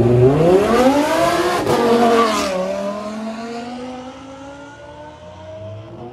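Sports car engine revving hard under acceleration, its pitch climbing steeply for about two seconds with a brief break partway, then easing off. A quieter engine note follows, slowly rising.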